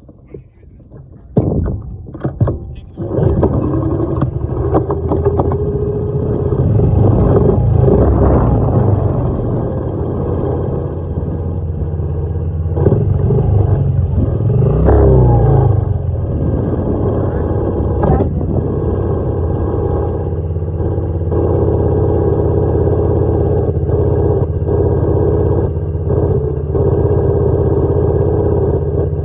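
Dirt bike engine running, with its pitch rising and falling as it is revved. It comes in loudly about three seconds in, after a few knocks.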